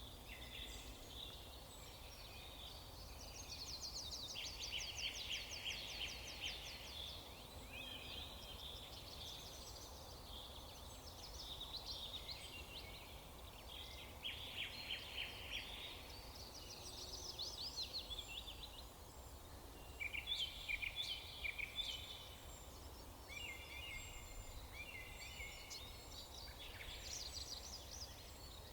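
Several songbirds singing and chirping, one song after another, including fast trills of rapidly repeated notes. A steady low background hum sits under them.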